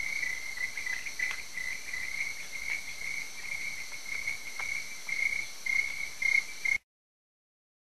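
Crickets chirping in a steady, finely pulsing trill over a faint hiss; the sound cuts off abruptly to silence near the end.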